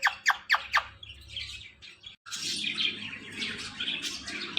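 Ringneck parrot squawking: a rapid run of about five sharp, harsh calls in the first second. After a brief break about two seconds in, denser chirping and chatter continue.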